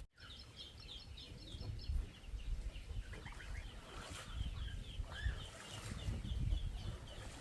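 Small birds chirping: a quick run of short high chirps, then scattered chirps and a single rising-and-falling call about five seconds in, over a low rumble.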